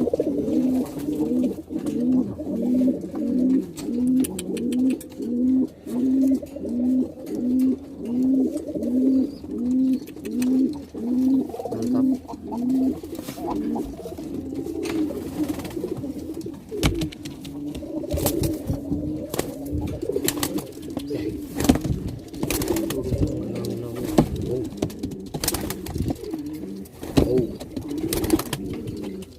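Domestic pigeon cooing in courtship display (giring): a regular run of low, repeated coos, about one and a half a second, for the first dozen seconds, then more irregular cooing mixed with sharp taps and clicks.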